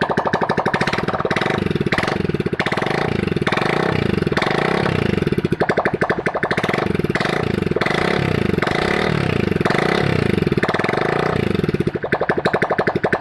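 Motorcycle engine running, its pitch rising and falling over and over. The engine is being test-run after an overhaul.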